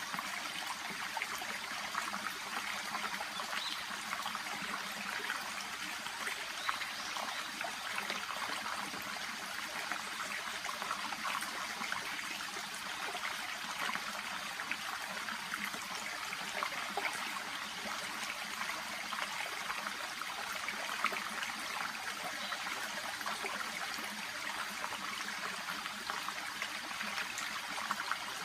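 A shallow babbling brook flowing steadily, water trickling and bubbling over and among water plants.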